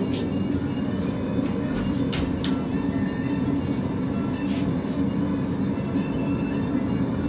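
Steady low mechanical drone, with a few faint clicks and taps over it about two seconds in.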